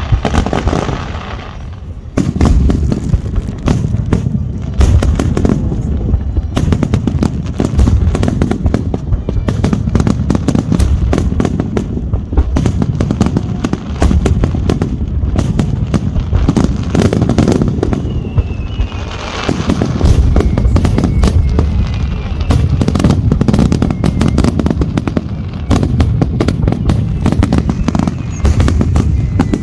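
Aerial fireworks display: after a brief lull, a dense barrage of shells begins about two seconds in, bursting in quick succession with many booms and crackles a second.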